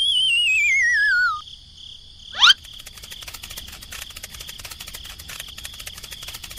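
Cartoon sound effects: a falling, wavering whistle for about a second and a half, then a quick rising zip about two seconds in, which is the loudest sound. After that comes a fast, even insect-like chirring over a steady high tone.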